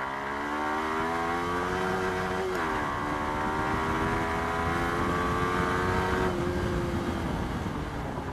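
Motorcycle engine accelerating in gear with a steadily rising pitch. It drops sharply at an upshift about two and a half seconds in, climbs again through the next gear, then levels off and fades as the throttle eases about six seconds in, with wind rumble throughout.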